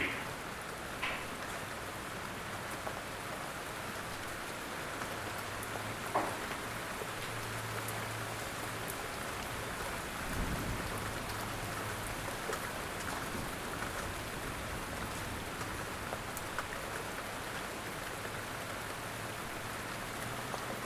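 Steady rain falling, an even hiss with a faint low hum beneath it. There is a brief low rumble about ten seconds in.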